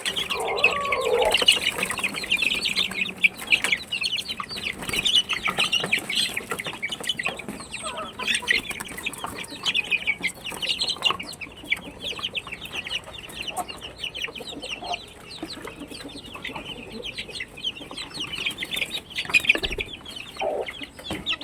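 A flock of backyard chickens clucking, with a constant chatter of short high-pitched cheeps and the odd lower cluck.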